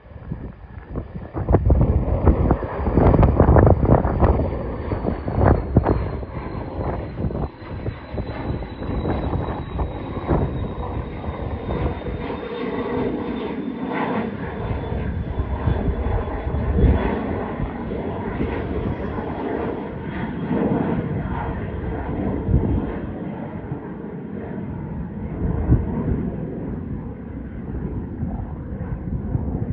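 Airliner taking off at full power. Its engines are loudest a few seconds in, with a high whine that slowly falls in pitch as it passes, then settle into steady engine noise as it climbs away.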